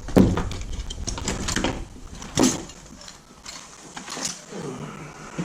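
Irregular knocks and scrapes of a hand tool working at coach-bolt nuts stuck in sealant. A cluster of sharp clanks comes in the first half and one more about halfway, then quieter fiddling.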